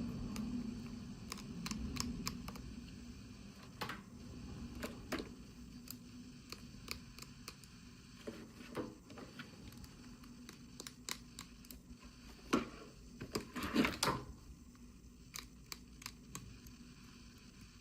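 Scattered light clicks and taps of small plastic toy pieces and packaging being handled, with a short burst of louder rustling and clicking in the last third.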